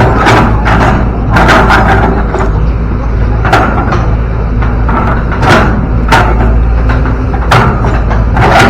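Excavator diesel engine running steadily, with repeated sharp knocks and clanks every half second to a second.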